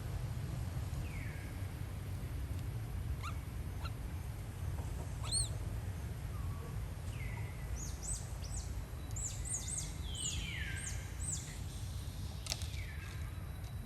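Birds calling: high falling whistles, with a quick run of short sharp chirps in the second half, over a steady low rumble.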